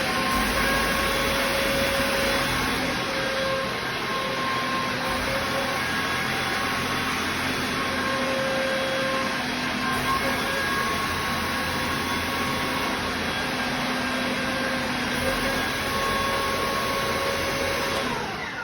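ZIF-55 air compressor driven by an electric motor, running steadily with a mechanical whine over loud machine noise, then shut off near the end, its pitch falling as it spins down. The owner says the electric motor lacks the power for it.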